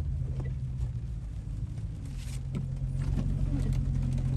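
Car engine running at a steady low speed, its hum rising slightly in level towards the end, with faint scattered ticks.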